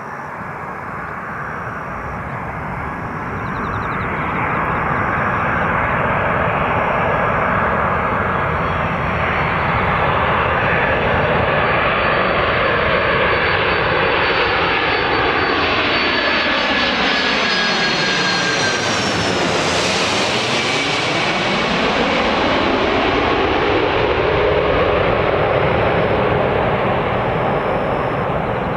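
Boeing 747-400 jetliner's four jet engines on approach to land, passing close by. The noise grows over the first few seconds and stays loud, with a sweeping whoosh and a high engine whine dropping in pitch as it goes past, about two-thirds of the way through.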